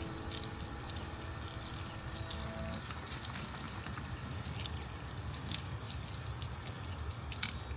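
Background music with held notes that stops about three seconds in, leaving steady beach ambience of wind buffeting the microphone over the wash of surf.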